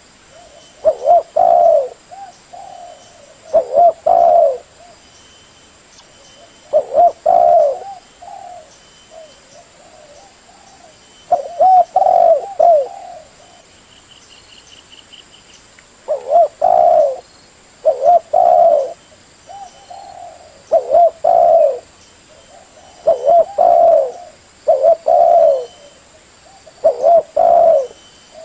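Spotted dove cooing: about ten short, loud coo phrases at irregular gaps of one to four seconds, with softer coos between them.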